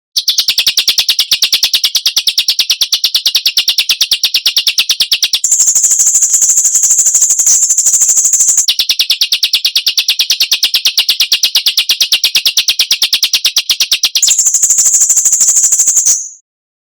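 Rapid, harsh, sharp bird notes repeated about ten a second: a 'besetan' rattle of the kind used as masteran to train songbirds. The rattle switches three times between a lower sharp band and a higher, shriller one, then stops abruptly near the end.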